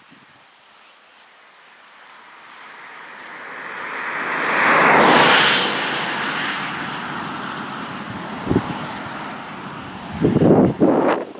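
A vehicle passing by on the road, its tyre and engine noise swelling to a peak about halfway through, dropping in pitch as it goes by, then slowly fading. Near the end, short gusts of wind buffet the microphone.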